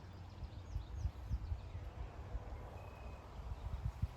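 Quiet open-air ambience on a golf course: an uneven low rumble, like wind on the microphone, with a few faint bird chirps about a second in.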